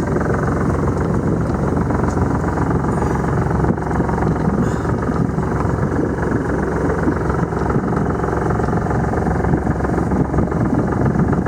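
Sailboat's inboard engine idling in neutral, a steady, even running sound.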